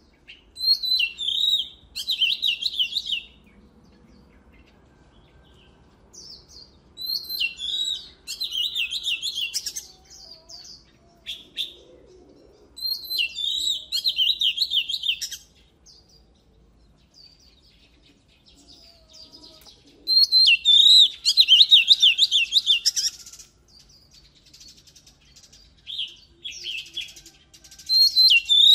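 Oriental magpie-robin singing: phrases of fast, repeated high whistled notes, each lasting two to three seconds, about five times with pauses of a few seconds between them.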